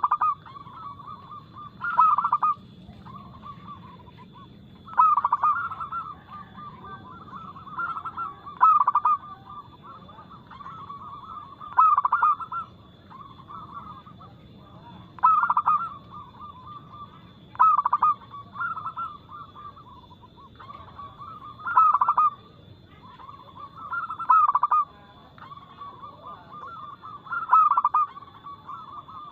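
Zebra dove (perkutut) cooing: a loud, clear coo phrase every two to three seconds, linked by softer rolling coos in between.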